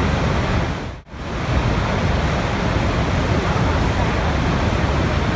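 Steady rushing water, a dense even noise with most weight in the low end. About a second in it briefly fades almost out and comes straight back.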